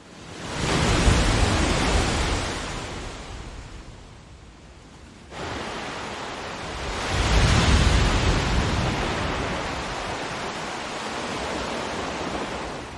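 Ocean waves washing onto a shore in swells. One wave surges about a second in and fades away, and a stronger one builds about seven seconds in, then slowly ebbs. About five seconds in the sound jumps up abruptly.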